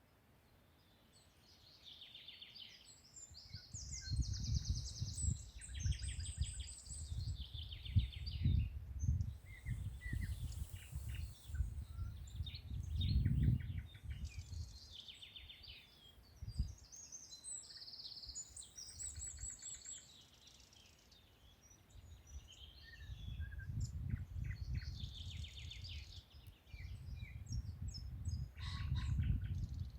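Several songbirds singing and chirping, with short trills and repeated high notes overlapping. A low, gusty rumble swells up under them twice, and it is the loudest sound when it comes.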